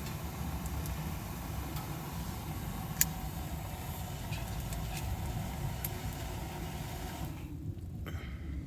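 A steady low rumble like an idling engine, with a few small clicks, the sharpest about three seconds in.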